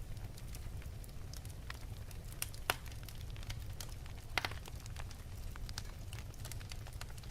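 Wood fire burning in an open fireplace: a steady low rumble of the flames with irregular sharp crackles and pops, two louder pops about three and four and a half seconds in.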